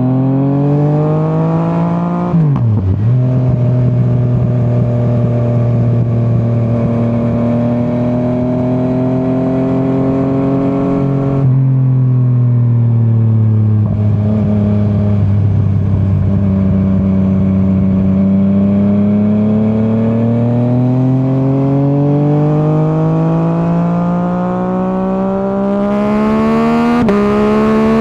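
Yamaha MT-09's three-cylinder engine riding along. Revs rise as it accelerates, then drop quickly about two and a half seconds in as it shifts up. It runs at steady revs, eases off, builds up again over the last ten seconds, and shifts once more near the end.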